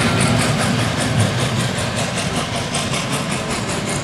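Historic steam-hauled passenger train pulling away: low rumble of the carriages rolling on the rails, with an even, rapid pulsing hiss about five times a second, slowly fading as the train moves off.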